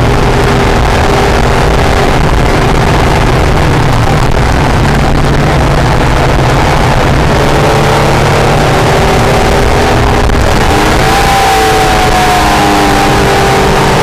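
Acura NSX's V6 engine pulling hard at track speed, heard from inside the car over heavy wind and road noise. The engine note wavers and shifts pitch in the last few seconds as the throttle and revs change.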